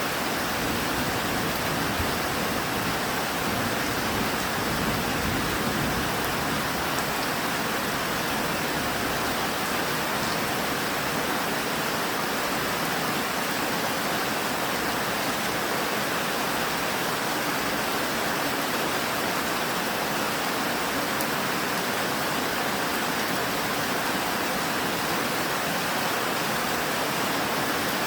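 Steady heavy rain falling at night, a constant even hiss of downpour.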